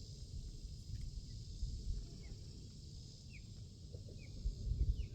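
Small birds giving short, high chirps, about six scattered over a few seconds, over a steady faint high hiss of insects and a low rumble that swells briefly near the end.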